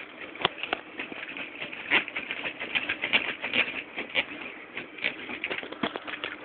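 Plastic K'nex model V8 engine turning over, its plastic pistons, connecting rods and crankshaft clicking and clattering in a fast, uneven patter.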